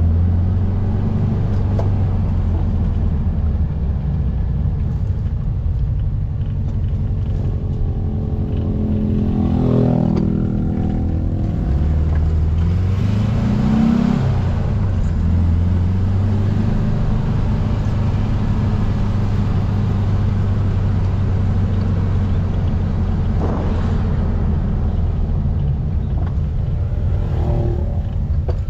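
1700cc air-cooled Volkswagen flat-four in a Baja Bug, running under way. The revs climb about a third of the way in, then climb again and fall at a gear change about halfway through. After that the engine holds a steady cruise.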